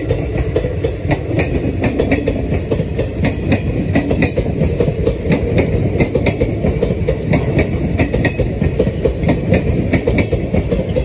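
Indian Railways passenger coaches rolling past close by: a steady low rumble of wheels on rails with many sharp, irregular clicks and clatters from the wheels and running gear.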